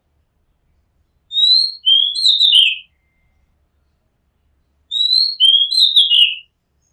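Oriental magpie robin singing: the same short phrase of clear whistled notes, sliding up and down, given twice about three and a half seconds apart.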